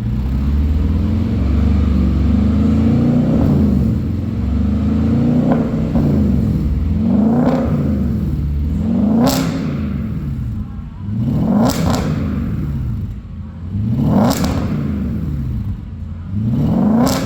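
Audi A8 engine through a variable valved exhaust: a steady low rumble, then revved in about five short blips that each rise and fall quickly.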